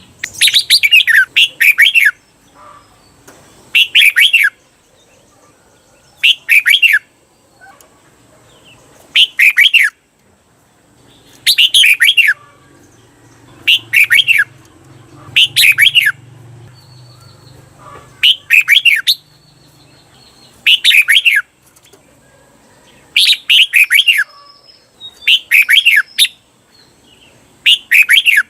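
Red-whiskered bulbul singing its short, bubbly song phrases every two seconds or so. Some phrases come back to back as a doubled ('เบิ้ล') song, the style that caged bulbuls are trained to copy.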